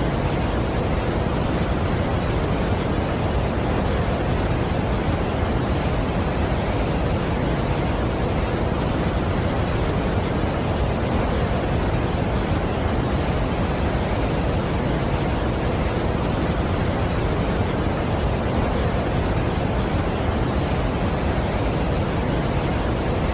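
Steady rushing of a large waterfall, an even wash of noise heaviest in the low end that never changes.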